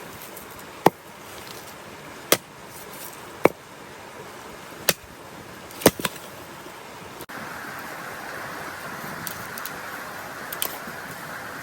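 A series of sharp knocks or cracks, about one every second or so, over a steady hiss. About seven seconds in the sound changes abruptly to a steadier, brighter hiss.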